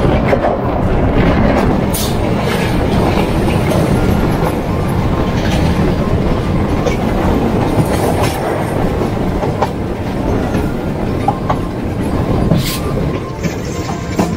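Suburban electric local train running along the track: a loud, steady rumble of wheels on rails with scattered sharp clicks and knocks.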